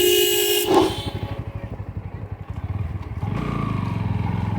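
A vehicle horn sounds for about the first second, a single held note. Then a motorcycle engine runs underneath, getting louder about three seconds in as it picks up.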